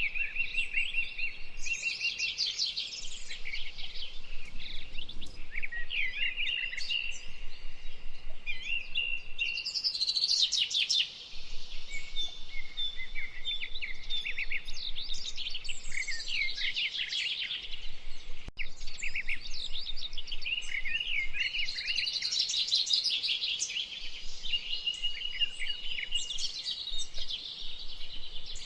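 Several songbirds singing at once in a continuous dawn-chorus-like mix of chirps, trills and whistled phrases, overlapping one another with hardly a gap.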